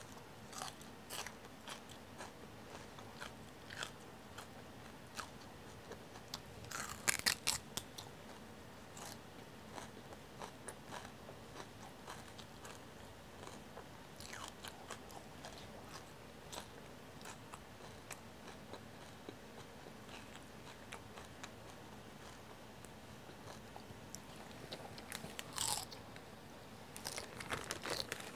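Crunchy chewing of a raw celery stick spread with peanut butter and raisins, with a louder burst of crunching about seven seconds in. A plastic zip bag rustles near the end.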